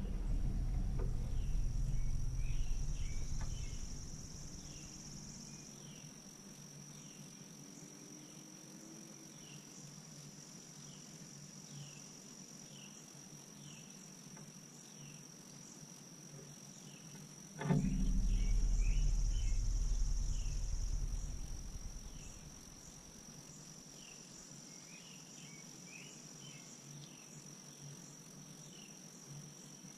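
Steady high-pitched insect chorus. A sudden thump about 18 s in is followed by a low rumble lasting about four seconds, and a similar rumble fades out over the first few seconds.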